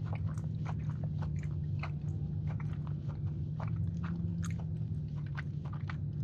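A person chewing a soft, underbaked blueberry muffin cookie close to the microphone, with frequent small wet mouth clicks at an irregular pace. A steady low hum runs underneath.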